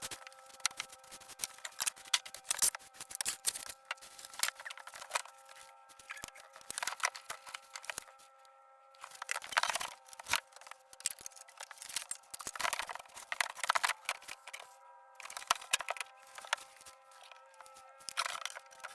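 Hands-on building work: a run of sharp clicks, scrapes and rustling or tearing noises, the longest bursts about 10, 13 and 18 seconds in, over a faint steady hum.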